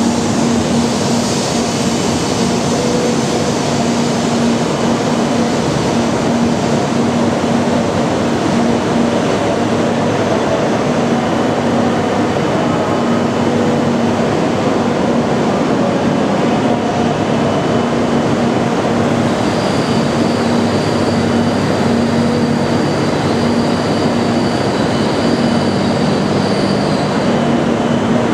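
Shinkansen train at the platform, a steady loud running noise with a pulsing low hum. A thin high whine joins about two-thirds of the way through and stops shortly before the end.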